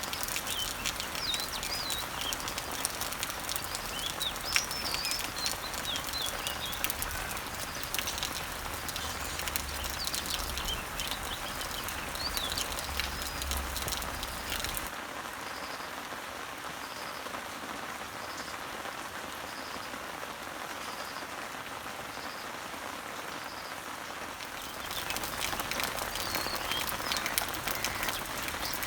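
Rain pattering on garden leaves, a dense spread of individual drops, with birds chirping now and then over it. About 15 seconds in the rain abruptly turns softer and a short high note repeats about once a second. The louder rain and the bird chirps return near the end.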